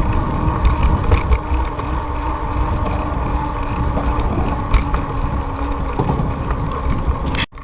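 Steady rumble of wind and road noise on the microphone of a moving bicycle, cutting out abruptly near the end.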